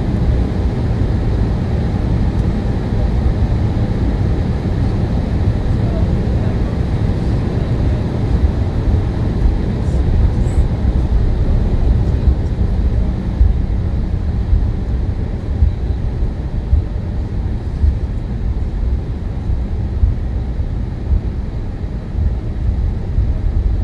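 Steady low rumble of an airliner heard from inside the cabin: engine and airframe noise.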